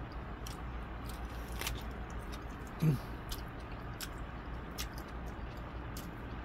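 Close-up eating sounds from a man eating sauced pork ribs: wet mouth clicks and lip smacks scattered throughout as he chews and licks sauce from his fingers. There is a brief low vocal sound about three seconds in.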